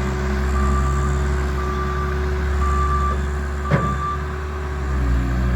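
Bobcat machine's diesel engine running steadily, its reversing alarm beeping about once a second, four beeps that stop about four seconds in. A single sharp knock sounds just before the beeping ends.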